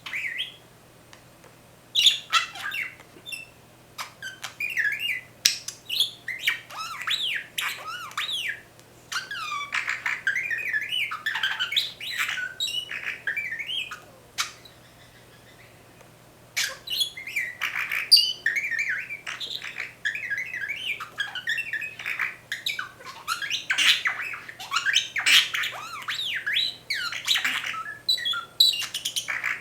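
Pet budgerigar mimicking R2-D2's beeps and whistles: bursts of rapid warbling chatter with quick gliding whistled notes. The bursts are broken by short pauses, the longest about halfway through.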